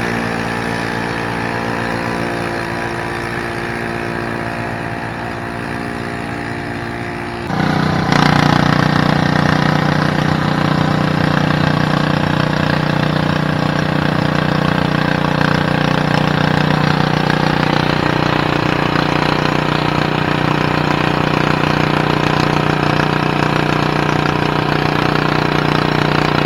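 A pulling tractor's engine running steadily. About a third of the way through it suddenly gets much louder and then holds that higher, steady pitch.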